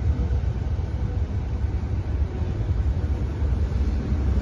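Trenitalia Pop electric multiple unit moving slowly along the platform, a steady low rumble that flickers in level.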